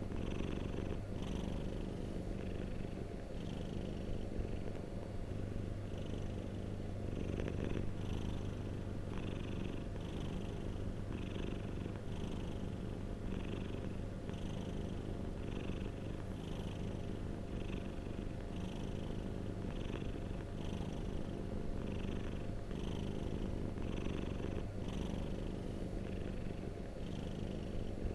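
Domestic cat purring steadily, a continuous low rumble with a faint breathy hiss coming and going about once a second.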